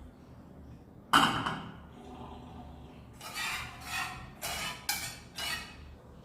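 Dishes and cutlery at a meal: one sharp clink with a short ring about a second in, then five or six quick scraping strokes of utensil against plate.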